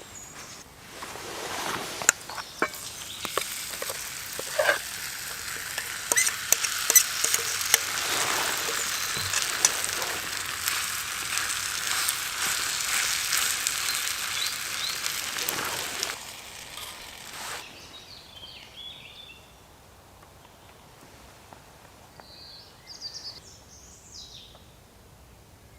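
Food frying in oil in a pan over a campfire: a steady sizzle studded with sharp pops and crackles. The sizzle dies away about two-thirds of the way through.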